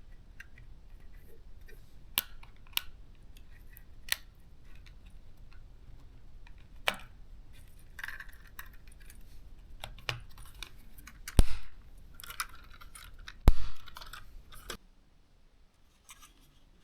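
Small plastic parts of a drone's shell being handled and pressed together: scattered sharp clicks and light rustling, with two louder snaps about two seconds apart in the second half.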